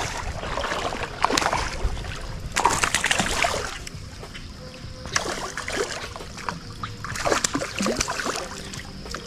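Water splashing and sloshing in irregular bursts, loudest about three seconds in.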